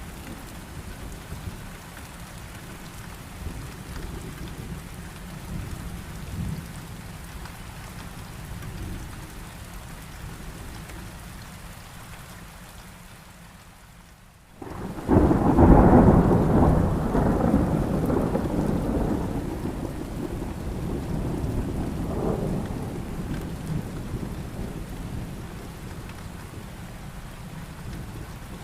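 Steady heavy rain. About halfway through, the sound drops out for a moment, then a loud thunderclap breaks in suddenly and rumbles away over several seconds while the rain continues.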